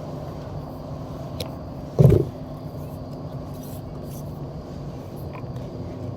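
Steady low hum of a motor vehicle's engine, with a short, louder low sound about two seconds in and a few faint clicks.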